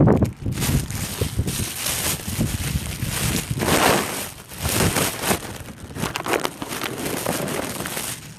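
Rustling and buffeting noise on a phone's microphone, irregular and fairly loud, with a low rumble underneath.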